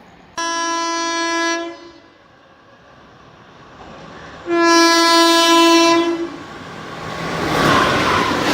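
Indian Railways train horn sounding two long blasts, the second louder, followed by the rising rush of the train approaching at speed.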